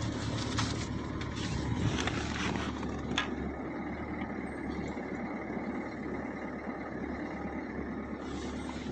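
Car engine idling just after a cold start at −22 °C, heard from inside the cabin as a steady low hum, with a few light clicks in the first three seconds.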